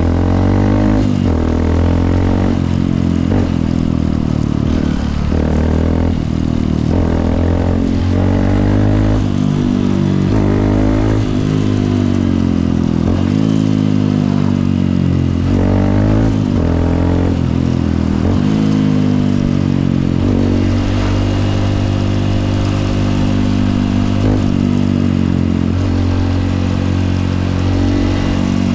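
Honda CRF150L's single-cylinder four-stroke engine on the move. Its pitch climbs and drops repeatedly as the throttle opens and the gears change, then holds steadier for the last several seconds.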